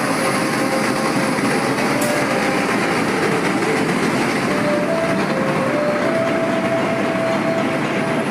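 A train running through the station: a loud, steady noise of the moving train, with a few held tones that step up and down in pitch every second or so.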